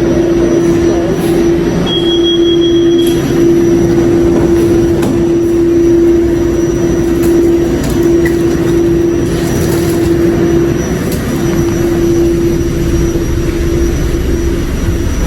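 Light-rail subway train running underground, with a steady rumble and a constant hum. A short high beep sounds about two seconds in.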